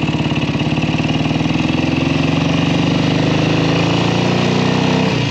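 1967 Kawasaki W1 650's parallel-twin engine running steadily under way, its note easing down near the end.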